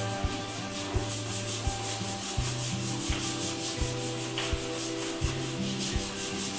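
Rapid, even back-and-forth scrubbing, about five strokes a second, with soft background music.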